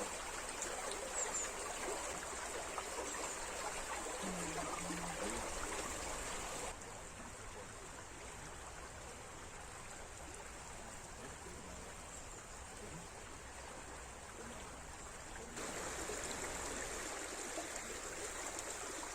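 Steady running water of a forest stream, an even rush and trickle. It drops to a quieter level about a third of the way through and comes back up near the end.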